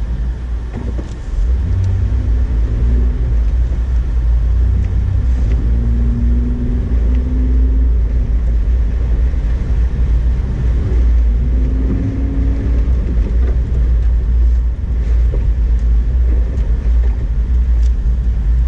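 2008 Honda Ridgeline driving on snow: a steady low rumble of engine and road noise, with a faint engine tone that comes and goes a few times. It gets louder about a second in.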